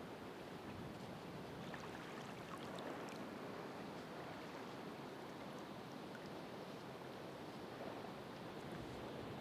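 Ocean surf washing in as a steady rush of water, swelling gently and easing.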